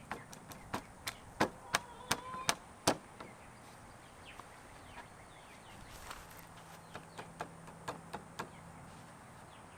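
A quick series of sharp knocks on wood, about eight in the first three seconds, then a lighter run of knocks about seven to eight and a half seconds in: a wooden chicken-tractor door being knocked into its frame.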